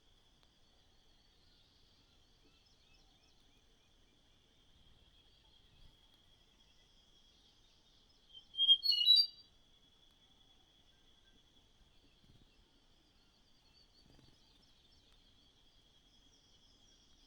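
A small bird gives a quick cluster of loud, short, high chirps about halfway through. Under it runs a faint, steady, high-pitched whine.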